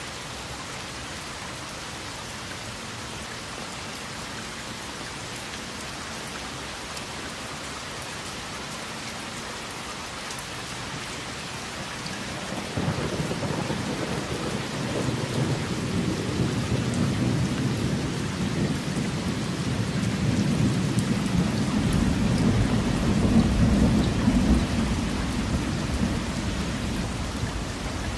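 Steady rain falling, joined about halfway through by a long, deep rolling thunder rumble that builds and is loudest near the end.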